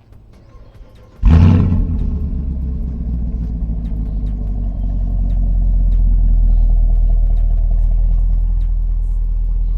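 Car engine starting: a sudden loud flare about a second in, then settling into a steady low idle.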